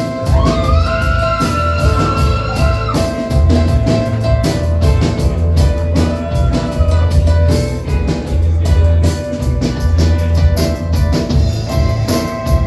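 Live rock band playing the instrumental intro of a song: drum kit beating steadily over low bass notes, with a held melody note that slides up near the start and again about six seconds in.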